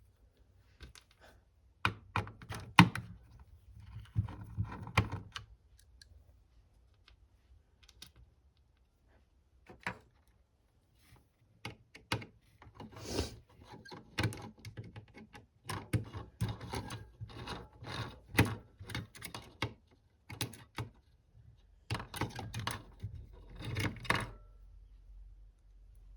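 Irregular clicks, taps and clatter of small metal hardware (screws, washers and a screwdriver) being handled while a radio is taken apart, coming in clusters with short quiet pauses.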